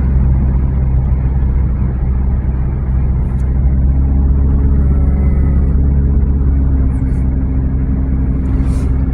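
A car driving along: a steady, even rumble of engine and road noise, heard from inside the cabin.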